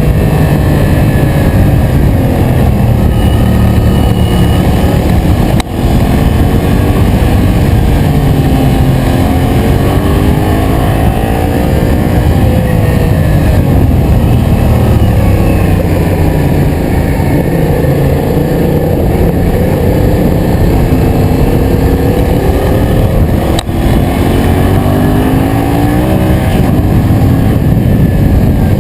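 Yamaha MT-07's 689 cc parallel-twin engine under way, its pitch rising and falling as the throttle opens and closes, over a dense low rush. The sound drops out briefly twice, about six seconds in and again near the end.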